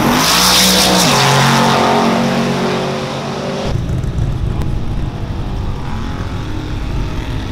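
A car engine running at high revs with loud tyre hiss. The engine pitch drops about a second in and then holds steady. Almost four seconds in the sound changes abruptly to a low, rough rumble.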